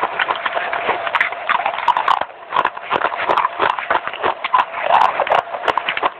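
Baked clay being chewed close to the microphone: fast, dry crunching and crackling, with a brief pause about two seconds in.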